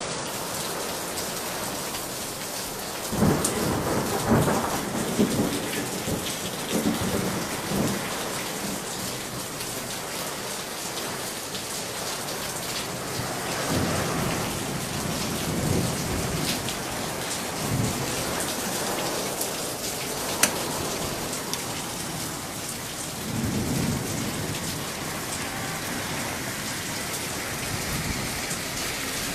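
Heavy rain falling steadily, with thunder rumbling in several rolls: a few seconds in, again through the middle, and once more near the end. About two-thirds of the way through there is a single sharp click.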